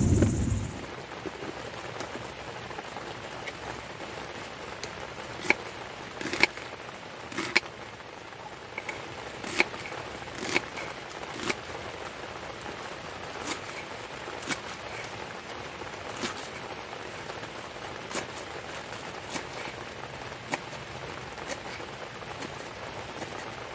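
Steady rain hiss with heavier drops tapping irregularly, about one a second, typical of rain dripping onto a tent or tarp. A loud low rush cuts off within the first second.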